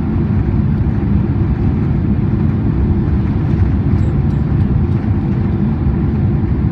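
Cabin noise of a Boeing 767-400ER airliner: a steady low rumble, even in loudness throughout.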